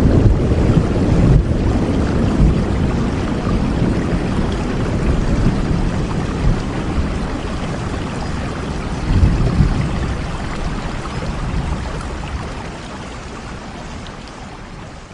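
Steady rain with a deep low rumble that swells near the start and again about nine seconds in, the whole sound fading gradually toward the end.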